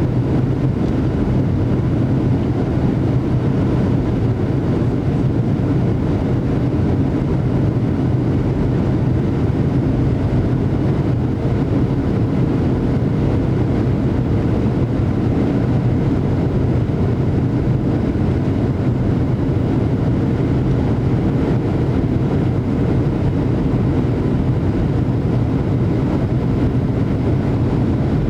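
Steady cabin noise of a Boeing 737-800 airliner: its CFM56-7B turbofan engines and the airflow around the fuselage make a constant low rush, with a faint steady hum.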